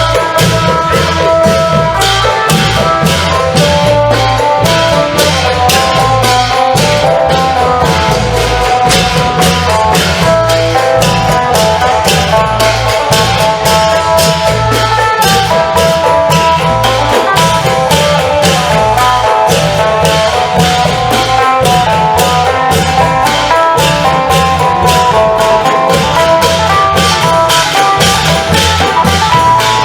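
Isan klong yao long-drum ensemble with a phin lute playing: a steady driving beat of drums and cymbals under a fast plucked phin melody and a repeating bass line.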